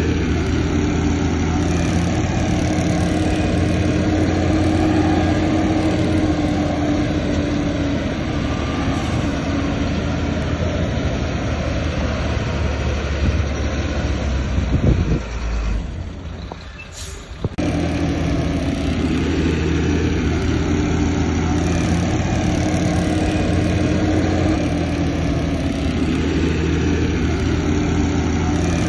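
Heavy diesel engine of earthmoving equipment running steadily under load, its pitch rising and falling a little. The sound drops away abruptly for about two seconds around the middle, then comes back at the same level.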